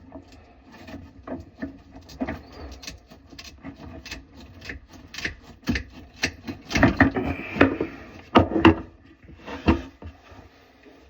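Irregular knocks, clicks and rubbing of tools and fittings being handled while a faucet is installed, with a louder run of knocks about seven to nine seconds in.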